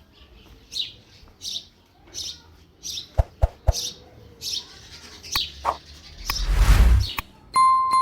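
Small birds chirping, short calls repeated every half second or so. A few sharp knocks come about three seconds in, then a loud brief rush of noise, and near the end a steady beep begins.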